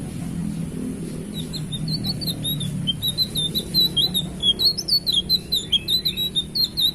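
Tledekan biru songbird singing loudly: a fast string of short, high chirps that begins about a second in and grows louder. A low steady hum sits underneath.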